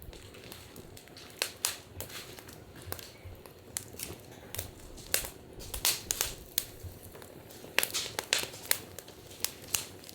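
Wood fire crackling, with irregular sharp snaps and pops over a faint hiss.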